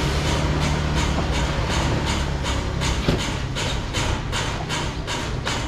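A train passing, its wheels clattering over the rail joints in a rapid, even rhythm of about three to four knocks a second over a low rumble that weakens about halfway through.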